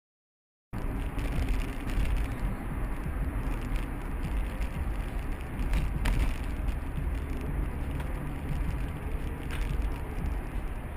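Dead silence, then, from just under a second in, a steady rumble of road and engine noise from a car being driven, as picked up by a dashcam inside it, with a couple of faint clicks.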